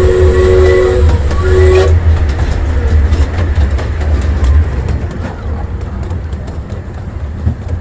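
A low steady whistle note from the train, sounded in two blasts that stop about two seconds in, followed by the miniature train rolling along with a deep rumble and the clicking of wheels over rail joints, gradually fading.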